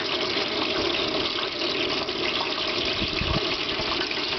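Steady rushing hiss of an outdoor propane fryer's burner running under a pot of peanut oil, with a brief low rumble about three seconds in.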